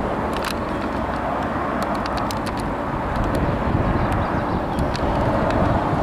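Steady vehicle noise with scattered faint clicks.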